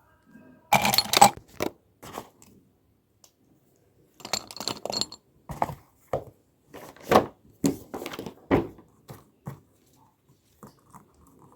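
Irregular rustling and crinkling of things being handled and moved about while tidying a room, with a few sharp knocks in between.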